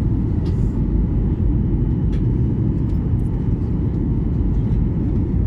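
Airliner cabin noise during the landing approach: a steady low rumble of the jet engines and airflow heard from inside the passenger cabin, with a few faint clicks.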